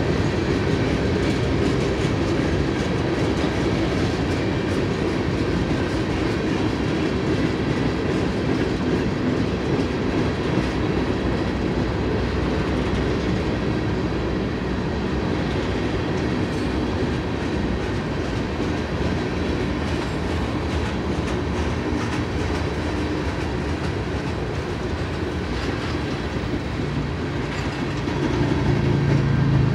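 Freight cars of a BNSF manifest train rolling past: boxcars, covered hoppers, centerbeam lumber cars and tank cars. It is a steady rumble and rattle of steel wheels on rail. Near the end a deep hum comes in and the sound grows louder.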